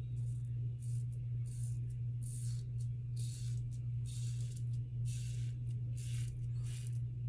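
KARVE Christopher Bradley safety razor with a Gillette Super Thin blade cutting through about four days of lathered stubble. It makes a series of short scratchy strokes, about two a second, over a steady low hum.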